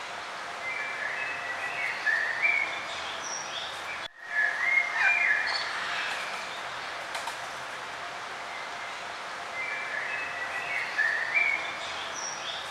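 Songbirds singing in short chirping, warbling phrases over a steady outdoor background hiss; the sound cuts out for an instant about four seconds in.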